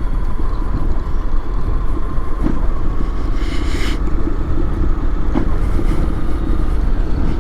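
Honda X-ADV 750's parallel-twin engine running while riding, under a heavy wind rumble on the microphone. A brief hiss comes about halfway through.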